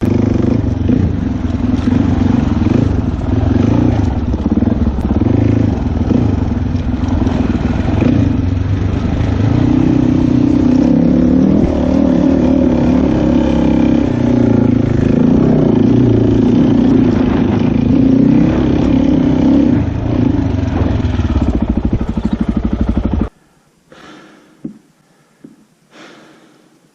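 Dirt bike engine running while being ridden, its pitch rising and falling with the throttle, with clattering over rough ground. The engine sound cuts off abruptly near the end, leaving a few faint short sounds.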